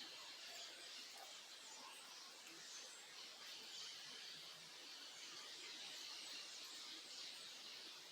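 Faint chorus of small birds chirping, many short high calls overlapping continuously over a steady high hiss.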